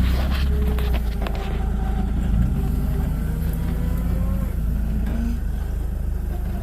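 Off-road 4x4's engine revving, its pitch climbing at the start and again about two and a half seconds in, then held steady under load. A few knocks are heard in the first second or so.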